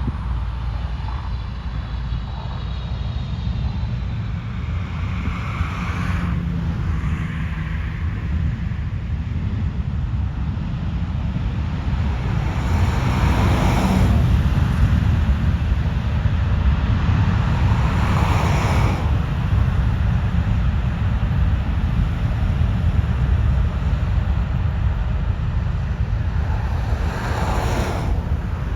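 Low, steady rumble of a jet airliner's engines at the airport, growing louder over the first dozen seconds and then holding. Road vehicles pass close by four times in short swells of noise.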